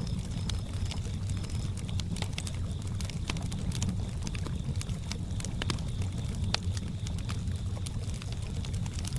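Campfire crackling with frequent sharp pops and snaps over a steady low rumble. A cricket chirps in short pulses that stop about a second in.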